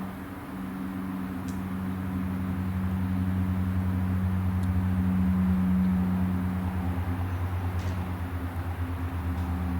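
Antonov An-12's four Ivchenko AI-20 turboprop engines and propellers making a steady low drone that throbs in a rapid, regular pulsing beat, plainest in the second half.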